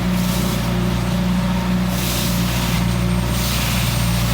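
Leaf collection truck's engine running steadily, with irregular surges of high hiss over the low hum.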